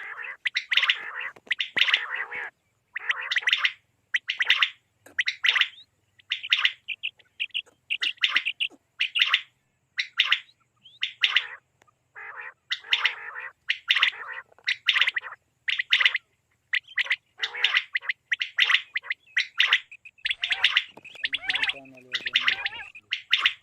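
Common quail calling over and over in short, rough, chirping bursts, about one to two a second.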